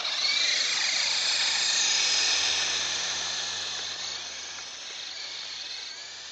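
Radio-controlled model helicopter's motor and rotor whine, starting abruptly at full power with several high tones, then fading over a few seconds.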